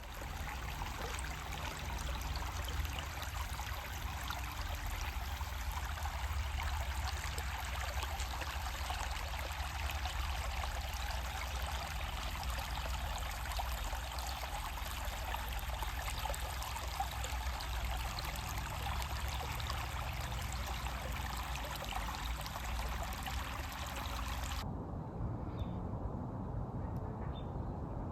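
Steady rush of running or splashing water that cuts off abruptly near the end.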